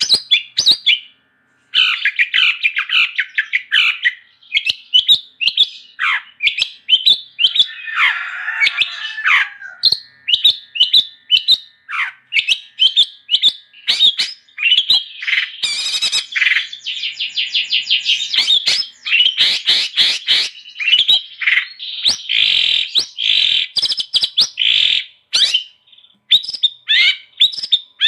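Long-tailed shrike (cendet) singing energetically: a rapid, continuous run of sharp chirps and trills, with a rougher, scratchier phrase about eight seconds in.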